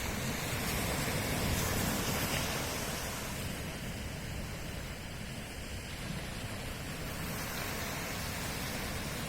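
Ocean surf washing on the shore as a steady rushing noise, swelling in the first couple of seconds and easing off after.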